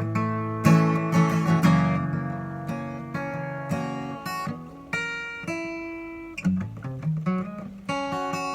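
Acoustic guitar playing an instrumental break: strummed chords for the first couple of seconds, then a line of single picked notes that ring out one after another.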